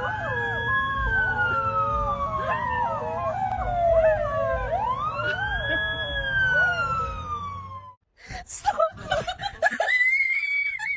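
A siren wailing: its pitch rises quickly and then slides slowly down, twice over, with another wavering pitch under it. It cuts off about eight seconds in.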